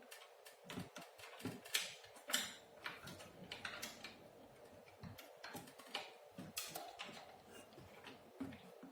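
Faint, irregular small clicks and taps of wire connectors being handled and pushed back onto the CRT television's circuit board during reassembly.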